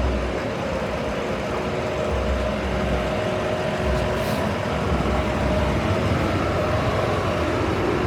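City street traffic with a heavy vehicle's engine running, such as a bus or truck, and a brief faint hiss about four seconds in.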